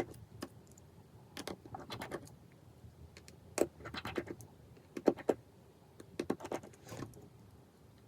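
Light, irregular clicks and small metallic clinks of repair tools and phone parts being handled, about a dozen taps in loose clusters.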